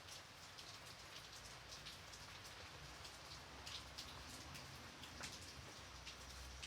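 Gentle rain falling: a soft, steady hiss with scattered individual drops tapping.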